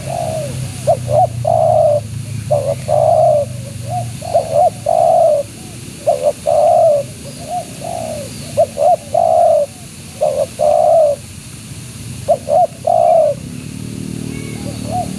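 Spotted dove (tekukur) cooing, repeating its phrase about every two seconds: a few short coos followed by a longer drawn-out coo, about six times over.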